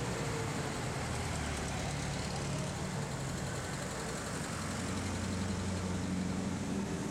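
Classic cars, a Volkswagen Beetle followed by a Citroën Traction Avant and a Citroën DS, driving slowly past one after another with their engines running at low revs in a steady low hum.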